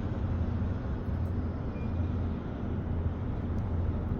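Road traffic heard from above: a steady low rumble of cars moving slowly through a snowy intersection.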